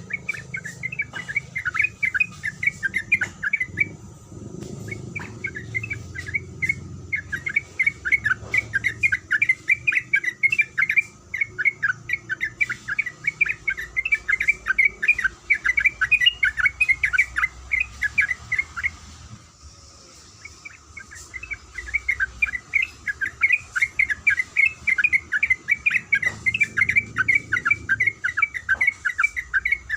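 Yellow-vented bulbul (trucukan) calling in long runs of rapid, repeated chattering notes, with a few short breaks, one about two seconds long just before two-thirds of the way through.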